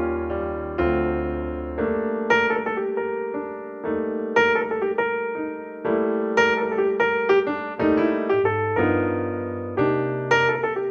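Background piano music: a slow piece of sustained chords and melody notes, each struck and left to die away.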